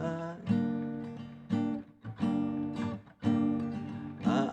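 Acoustic guitar strumming chords in a slow ballad accompaniment, a new strum about every second, with the end of a sung line held at the start.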